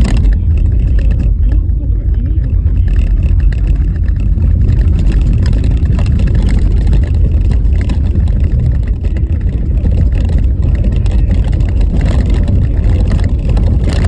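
Car driving on a rough, snow-covered road: a steady, loud low rumble of tyres and wind, with a few faint knocks from the bumpy surface.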